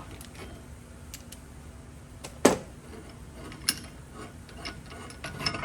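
Scattered metal clicks and knocks as the ball joint press and the freshly pressed-out ball joint are handled, with one loud knock about two and a half seconds in.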